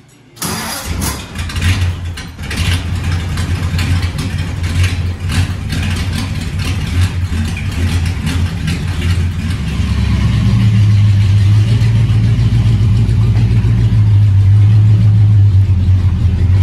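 Hot rod roadster's engine starting abruptly about half a second in, then running unevenly with short revs for several seconds before settling into a steadier, louder run from about ten seconds as the car drives off.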